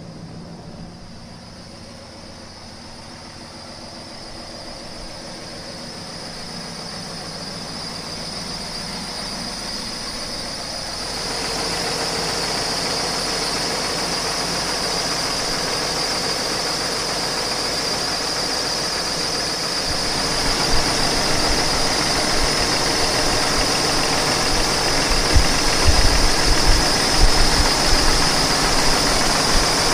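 A 500 hp Cummins ISX diesel engine in a semi-truck, running. It grows louder through the first ten seconds and steps up about eleven seconds in, when a steady high whine joins it. Irregular low thumps come in during the last third.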